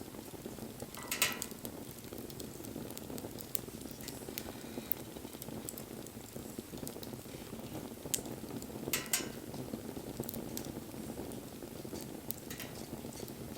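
Wood bonfire burning with a steady low rush, broken by scattered crackles and pops; the sharpest pops come about a second in and again about nine seconds in.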